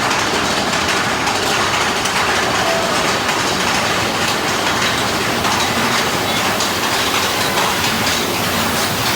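Big Thunder Mountain Railroad's mine-train roller coaster running on its track: a steady, loud rumble and rattle of the coaster cars.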